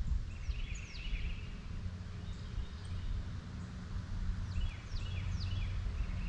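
A bird calling: a few quick, high, downward-slurred notes about half a second in and again near the end, over a steady low rumble.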